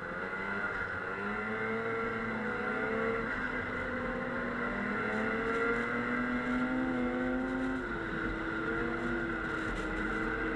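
Snowmobile engine running under way, its pitch rising and falling as the throttle changes.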